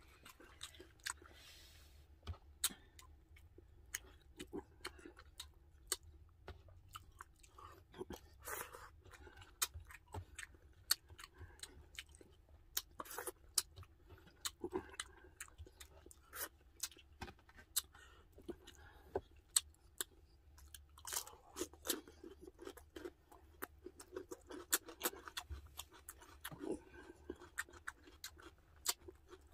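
Close-miked chewing and mouth sounds: many scattered sharp, wet clicks and smacks as rice and braised pork spareribs are eaten by hand.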